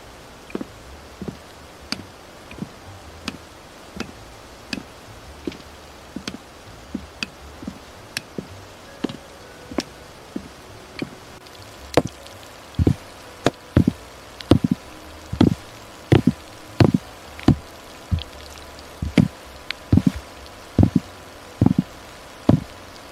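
Footsteps of a person walking at a steady pace, each step a dull knock, over a faint background hiss; the steps get louder about halfway through.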